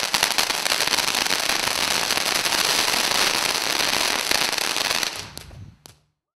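Ground firework fountain spraying sparks with a dense crackle and hiss, thick with sharp pops, dying away about five seconds in.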